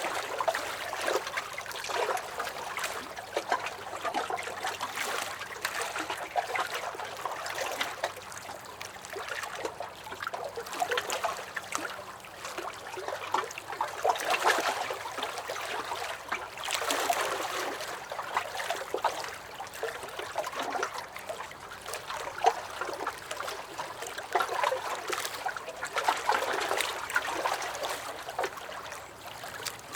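Small lake waves lapping against a dock: continuous uneven sloshing and small splashes that swell and ebb every few seconds.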